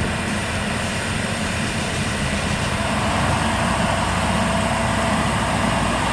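A heavy engine running steadily, a low hum under a wide rush of noise, growing a little louder about three seconds in.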